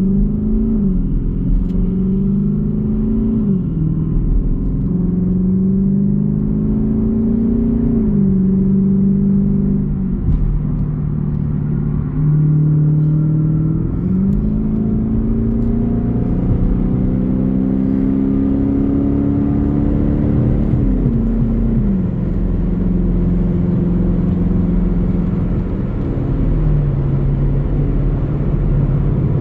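Jeep Grand Cherokee's 5.7 Hemi V8 exhaust rumbling while driving. The pitch climbs and drops sharply several times as it shifts up through the gears, then eases lower and settles in the later part.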